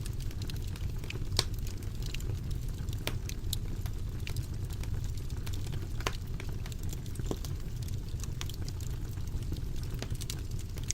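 Wood fire burning in a fireplace, with a steady low rumble of the flames and irregular sharp crackles and pops from the burning logs, one louder pop about a second and a half in.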